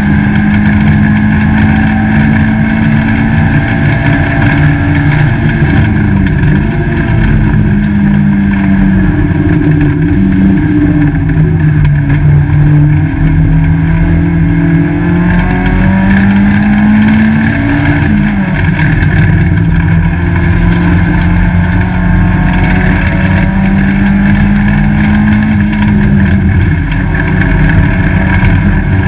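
Peugeot 205 GTi race car's engine heard from inside the stripped cabin, driven hard on track. The engine note climbs steadily and drops sharply several times, as with gear changes or lifting off, over constant road and wind rumble.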